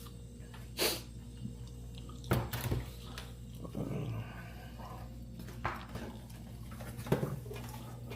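A dog barking a few separate times, mixed with a few sharp clicks and knocks of hand tools on motorcycle parts.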